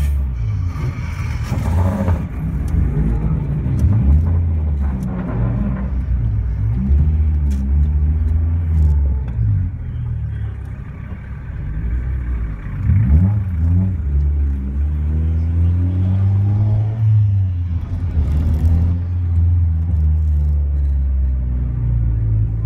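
Honda Integra Type R DC2's 1.8-litre VTEC four-cylinder, decat with an Invidia N1 exhaust, idling and pulling at low revs, heard from inside the cabin. The engine note rises and falls briefly several times.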